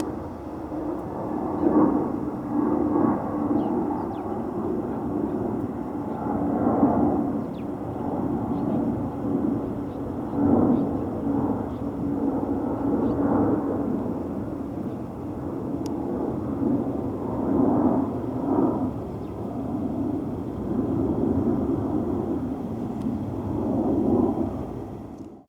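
Jet airliner engines running: a steady low drone with a held low tone, swelling and easing every few seconds, that cuts off just before the end.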